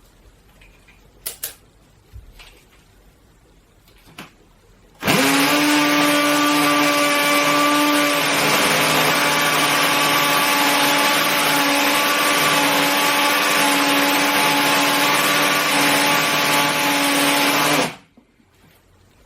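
Bosch UniversalImpact 18V cordless hammer drill boring into a concrete ceiling in hammer mode. A few faint clicks come first. About five seconds in, a loud, steady motor whine with a hammering rattle starts, and it stops suddenly near the end.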